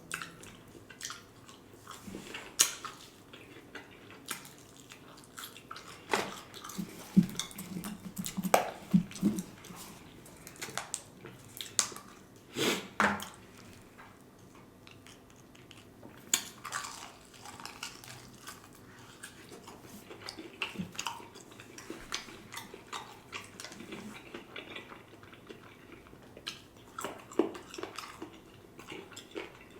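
Close-miked chewing and biting of fried chicken and fish, with wet mouth clicks and smacks coming in short, irregular bursts.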